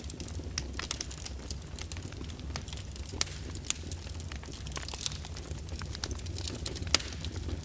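Open fire crackling, with irregular sharp pops and snaps over a steady low rumble; the loudest pops come about three seconds in and again near the end.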